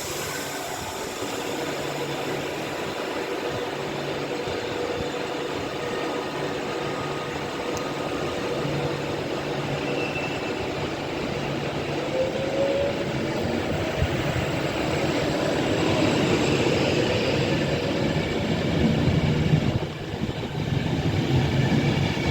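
Avanti West Coast Pendolino electric train pulling out of the station, running steadily and slowly growing louder, with a rising whine about twelve seconds in as it picks up speed.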